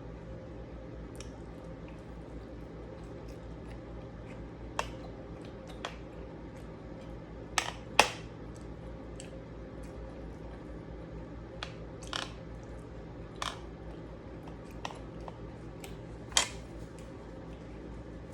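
Eating at a table: scattered sharp clicks and crunches of utensils on a plate and crisp food being bitten, about a dozen in all, the loudest about eight seconds in. A steady low hum runs underneath.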